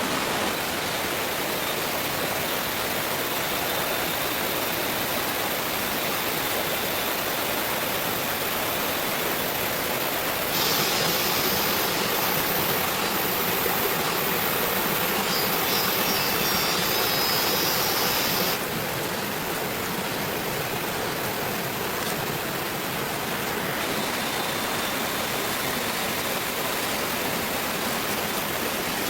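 Steady rushing noise with no clear pitch. Its character changes abruptly about a third of the way in, getting a little louder and hissier, and changes again twice past the middle.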